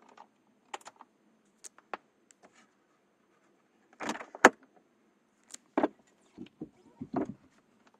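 Scattered clicks and knocks of keys and handling in the car, with the diesel engine not yet turning over; the sharpest click comes about four and a half seconds in.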